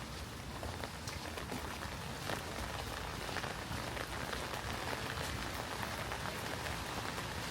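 Steady rain falling, with many small drops ticking on surfaces over an even hiss and a low rumble underneath.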